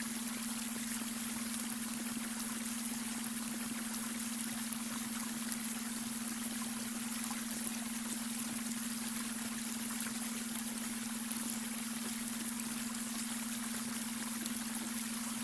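A babbling brook flowing steadily, with an unchanging low tone under it: the beta-wave brainwave tone blended into the water sound.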